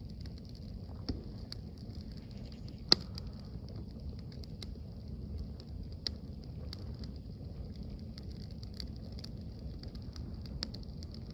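Campfire crackling: scattered sharp pops from burning wood, with one loud pop about three seconds in.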